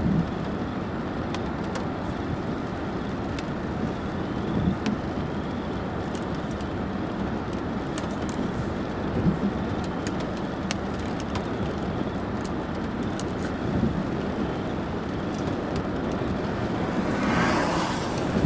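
Car driving on a road: steady road and tyre noise with scattered faint clicks and a few low thumps, and a short rushing swell near the end.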